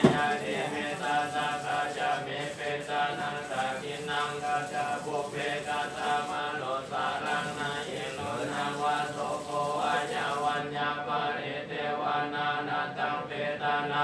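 Buddhist chanting in Pali, voices reciting verses continuously on a few held pitches, with a sharp click right at the start.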